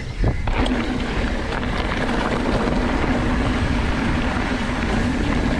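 Mountain bike riding fast along a dirt trail: steady wind rush on the microphone and tyres rolling over dirt, with a thump just after the start.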